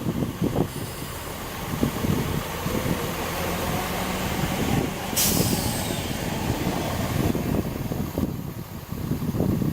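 A train at a station, with gusts of wind buffeting the microphone; about halfway through, a sudden sharp hiss of air, typical of a train's air brakes, fades over a second or two.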